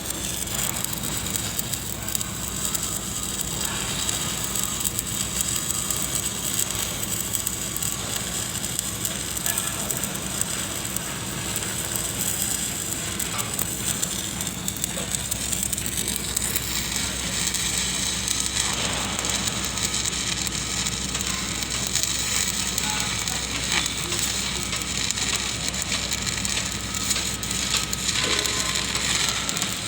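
Electric arc welding on galvanized steel pipe: a continuous dense crackle and sputter of the arc, with a steady low hum underneath.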